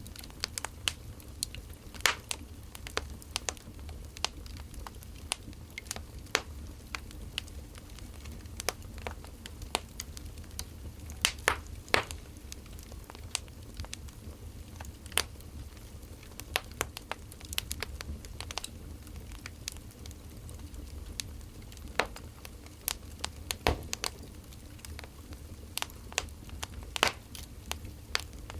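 Wood fire crackling: irregular sharp pops and snaps, some much louder than others, over a low steady rumble.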